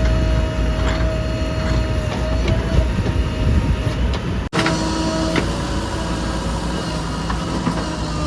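Diesel engines of a backhoe loader and tractors running at work: a low rumble with a steady high whine over it. The sound cuts out for an instant about halfway through.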